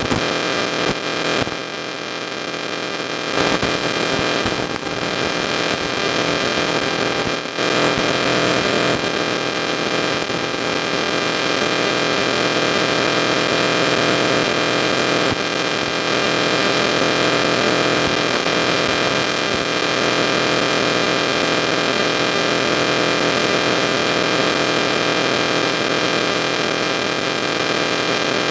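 Steady electrical hum and buzz with hiss, a mix of many fixed tones over a constant noise, holding level throughout with a few brief dips in the first several seconds.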